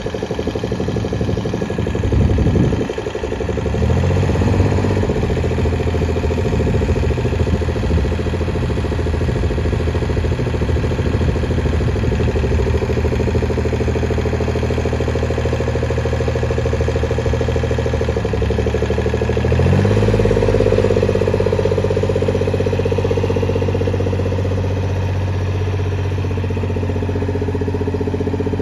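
Ford 1510 compact tractor's three-cylinder diesel engine running steadily near idle, with a brief rev about four seconds in. About two-thirds of the way through it is throttled up, the pitch rising, and it holds at the higher speed.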